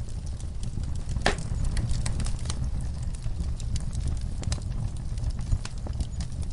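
Wood fire in a fire pit crackling, with irregular sharp pops from the burning logs and coals, one louder pop about a second in, over a steady low rumble.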